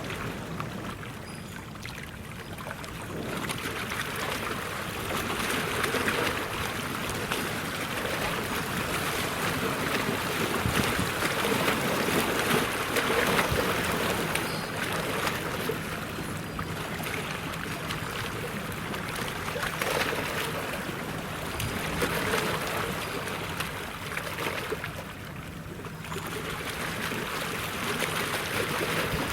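Water washing and splashing, swelling and easing every few seconds, over a faint steady low engine hum.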